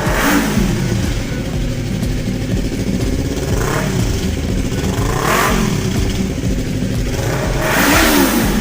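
Yamaha YZF-R3's 321 cc parallel-twin engine idling between four short throttle blips, each rising and falling in pitch, the last one the loudest.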